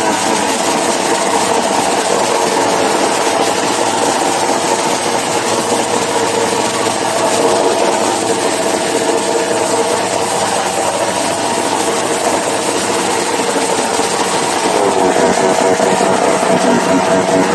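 Motorcycle engine in a revving contest, held at high revs and loud, with a steady pitch; about 15 seconds in the pitch dips and shifts as the revs change and it gets a little louder.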